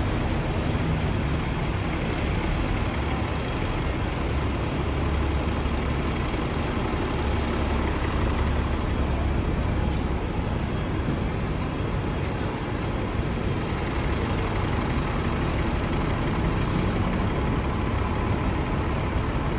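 Steady street traffic noise: heavy vehicles such as buses idling and moving, with a constant low rumble and no single event standing out.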